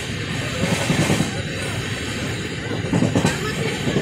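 Passenger express train running at speed, heard from inside the coach: a steady rumble with wheels clattering over rail joints, louder about a second in and again about three seconds in.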